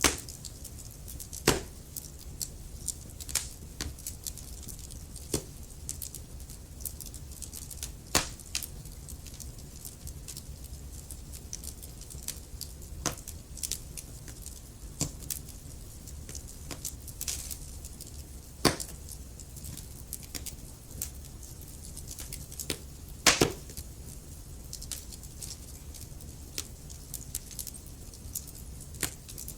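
Wood logs burning in a fireplace: a steady low rumble of flame with irregular crackles and sharp pops, a few louder snaps among them.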